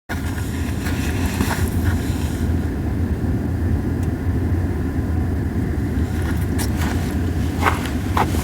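Small fire of dried hinoki cypress cones burning with a steady low rumble and only a few sparse crackles, several scattered pops with the sharpest near the end. The cones are burning poorly, so there is little crackling.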